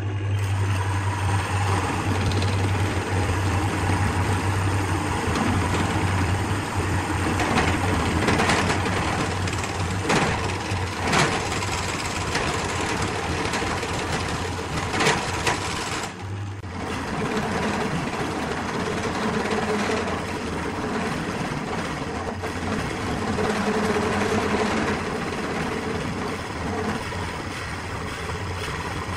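Wood lathe running steadily, with a few sharp knocks in the middle; the sound breaks off for a moment about sixteen seconds in, then the lathe runs on.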